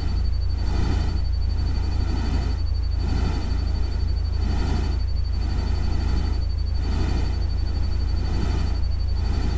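Relaxation nature-sound ambience meant as rain and stream: a steady low rumble under a wash of noise that swells and fades about every three-quarters of a second, with a thin steady high tone above it.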